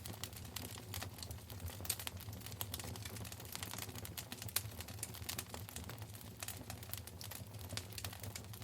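Wood fire crackling in a fireplace: a dense, irregular run of sharp snaps and pops over a low steady hum.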